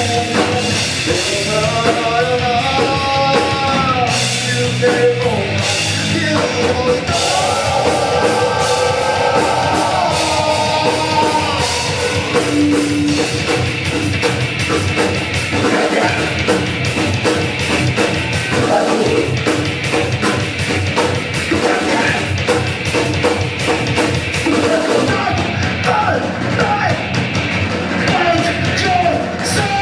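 Live rock band playing a loud heavy song, with distorted guitars and a busy drum kit. Sung or lead lines are heard in the first half.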